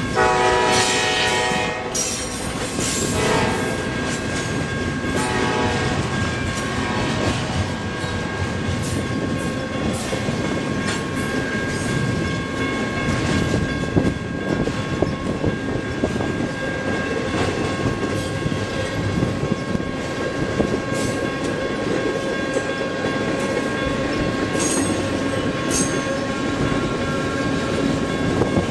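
Norfolk Southern double-stack intermodal freight train rolling by over a level crossing. The locomotive horn sounds at the start and stops about two seconds in, with two short, fainter blasts after. Then comes the steady rumble and clickety-clack of the container well cars on the rails.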